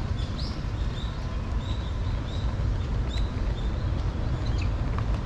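Small birds chirping, short high notes repeated every half second or so, over a steady low background rumble.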